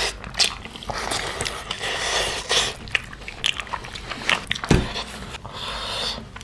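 Close-miked eating: wet chewing and lip-smacking on gelatinous pig's feet curry and rice, an irregular run of short sticky clicks and smacks, with one heavier thump about two-thirds through.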